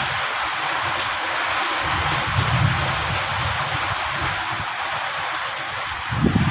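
Rain falling steadily, a dense even hiss, with low rumbles partway through and a short low thump near the end.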